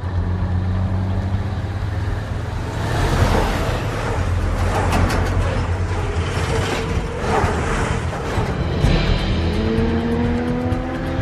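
Movie soundtrack of vehicles on the road, with steady engine hum and tyre and road noise under score music. An engine note rises slowly near the end as a vehicle accelerates.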